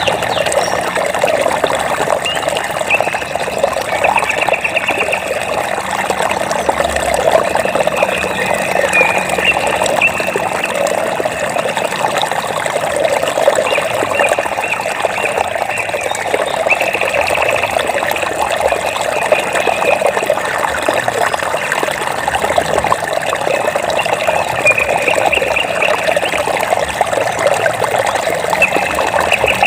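Running water trickling and splashing in a steady flow, with bouts of a rapid, high trill from an animal repeating every few seconds over it.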